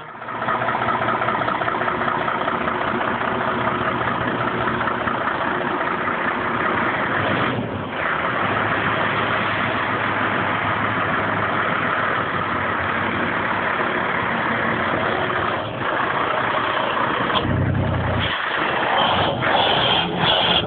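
Scania truck's diesel engine running, a steady noisy drone with brief dips about eight and sixteen seconds in and an uneven patch near the end.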